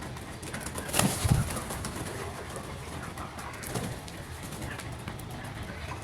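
Pet birds making soft, low cooing-like calls, with a loud sudden knock about a second in and scattered small clicks.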